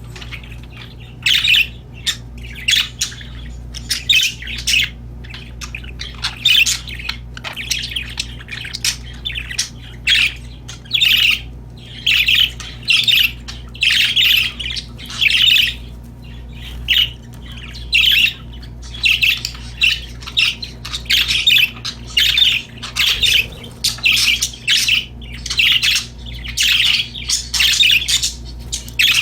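Budgerigars chirping and chattering in quick, irregular bursts, over a steady low hum.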